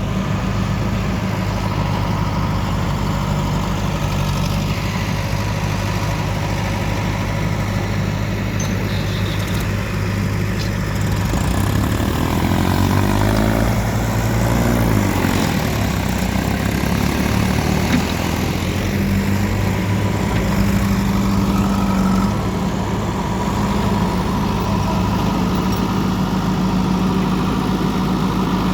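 Heavy diesel machinery engine running steadily, its speed rising and falling for a few seconds about halfway through before settling again.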